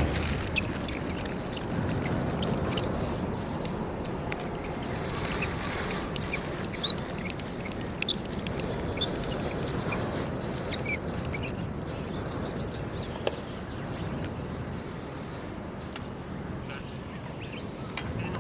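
Wood fire crackling with scattered sharp pops, over a steady, high-pitched insect trill.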